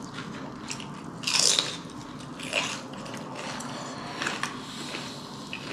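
Eating sounds close to the microphone: a person biting and chewing a mouthful of food. There are a few short bursts, loudest about a second and a half in, with smaller ones at about two and a half and four seconds.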